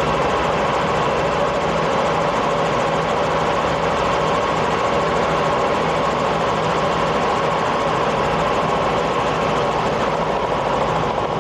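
Helicopter in cruising flight, heard from inside the cabin: a steady, unchanging drone of engine and rotor noise with a constant hum.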